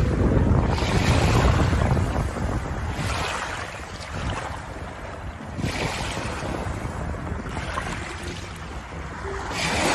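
Ocean waves breaking and washing in, surging and falling back about every three seconds.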